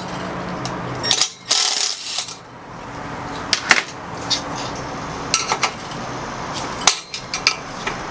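Metal hand tools clinking and clicking against metal parts in irregular, sharp knocks, as bolts are worked loose on a car's exhaust.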